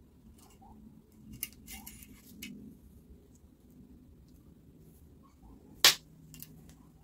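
Light handling clicks and rattles, then one sharp, loud click about six seconds in, over a faint low hum.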